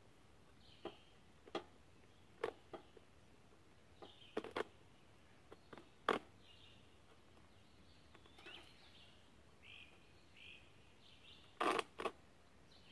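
Scattered short clicks and knocks from hands working cord through a cottonwood-bark quiver tube and pulling the lacing tight, the loudest a quick pair near the end. Birds chirp faintly in the background.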